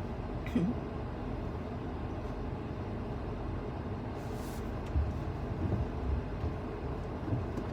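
A car driving on a snowy road, with steady engine and road noise heard from inside the cabin and a brief hiss about four seconds in.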